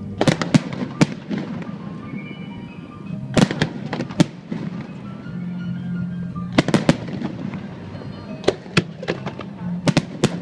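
Aerial fireworks bursting in quick clusters of sharp bangs, a few every two to three seconds, with music playing underneath.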